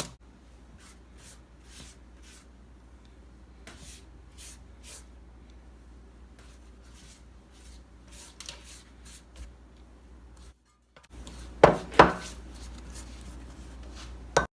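Kitchen utensils handled on a board and pan: light scraping, rubbing and small clicks, then two sharp knocks close together about twelve seconds in.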